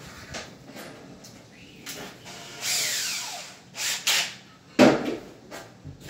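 Power drill whirring briefly, its pitch falling as it spins down, followed by a few sharp knocks.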